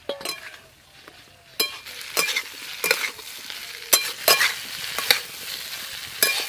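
Mixed vegetables frying and sizzling in mustard oil in a wok, stirred with a spatula that scrapes the pan in short, irregular strokes. The sizzle grows louder about a second and a half in.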